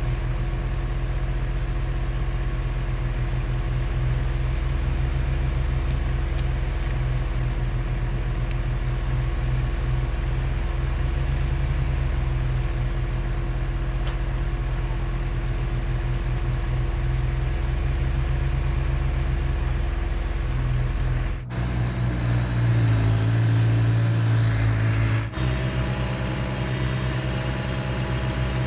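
Heavy construction machinery's diesel engine running steadily with a low hum. About three-quarters of the way through, the sound changes abruptly to a different engine note that rises in pitch for a few seconds, then switches back to the steady hum.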